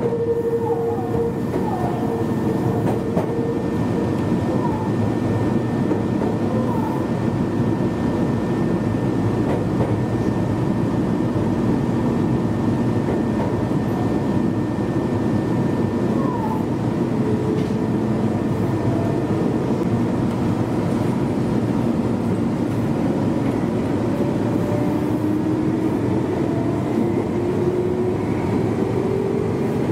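Meitetsu 1200 series electric train running at speed, heard from inside the front of the train: a steady rumble of wheels on rail with a motor whine that rises in pitch over the last few seconds.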